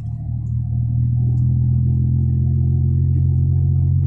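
Isuzu Deca dump truck's diesel engine running under way, a steady low drone heard from inside the cab, growing louder over the first second and then holding even.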